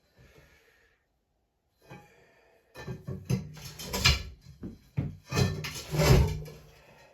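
A run of irregular knocks, bumps and scrapes from objects being handled, starting about two seconds in, with the loudest knocks around four and six seconds in.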